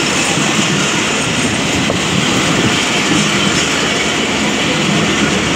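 Passenger train coaches rolling past close by, a steady, loud running noise of steel wheels on the rails.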